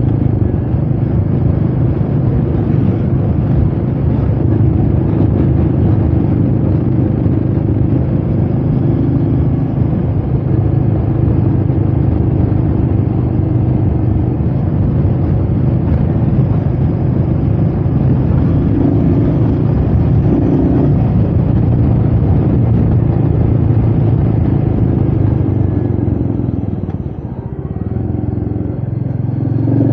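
Royal Enfield Meteor 350's single-cylinder engine running steadily under way, with wind noise. Near the end the revs drop briefly, then climb again.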